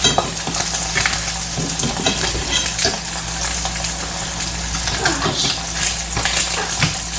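Food sizzling and spattering in a skillet on high heat, a steady crackling hiss, with a few clicks and scrapes of a utensil against the pan.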